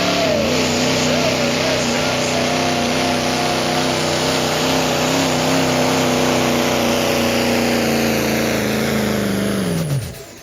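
Diesel pickup truck pulling a sled at full throttle, its engine held at high revs under heavy load with a dense rush of turbo and exhaust noise. Near the end the revs fall away sharply as the run ends.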